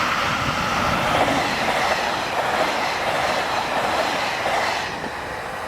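Freight train running past, its wagons rolling along the rails in a loud, steady rush that eases slightly near the end.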